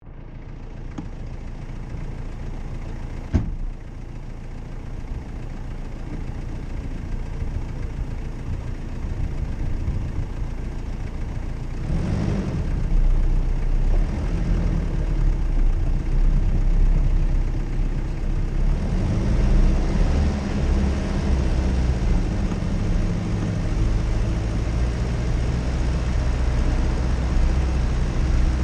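Jeep Cherokee engine running quietly, then louder and heavier from about twelve seconds in as it works harder. A single sharp click sounds a few seconds in.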